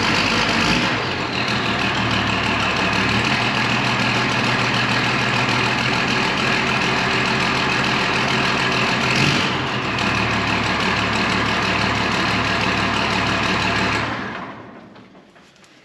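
Tractor diesel engine running cold, just after a cold start on a frosty morning. Its note shifts about a second in and again about ten seconds in, and the sound falls away over a couple of seconds near the end.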